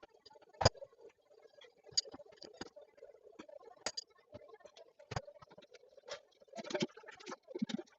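Irregular clicks and knocks of hands working on the parts of a close-coupled toilet cistern, over a faint steady hum. There is a louder knock just under a second in, another about five seconds in, and a quick cluster of knocks near the end.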